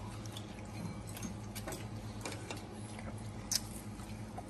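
Close-up chewing of a big mouthful of beef leg meat, with small scattered clicks and one sharper click about three and a half seconds in, over a steady low hum.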